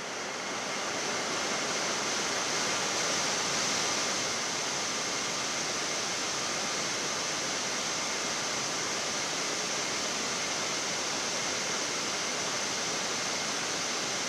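Steady rushing background noise of a Boeing 787 flight deck in descent, with faint steady tones above the hiss.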